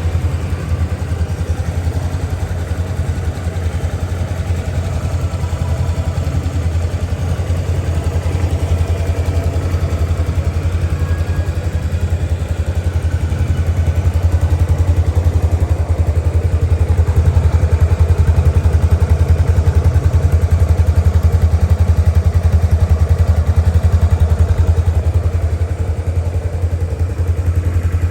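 2003 Honda CBX 250 Twister's single-cylinder engine idling steadily, running a little louder through the second half.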